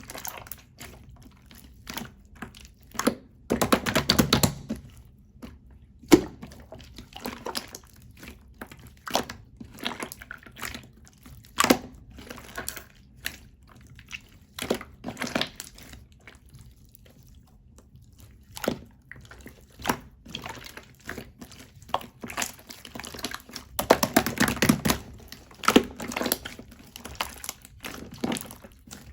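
Slime being squished and pressed by hand, making irregular sticky clicks and pops, with two denser runs of crackling a few seconds in and again near the end.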